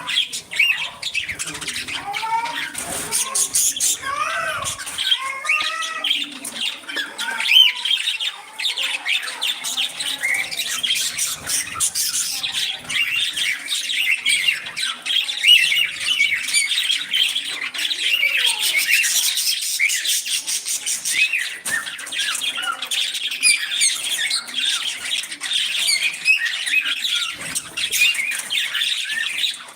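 Pet budgies (budgerigars) chattering and squawking continuously, a dense overlapping stream of short chirps, warbles and quick pitch glides.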